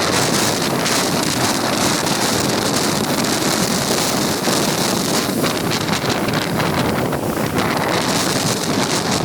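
Gale-force gusting wind buffeting the microphone, with lake waves breaking and washing. It is a loud, steady rush with a hiss that eases about halfway through and swells again near the end.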